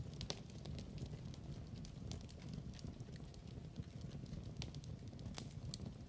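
Log fire crackling: irregular sharp pops and snaps over a low steady rumble.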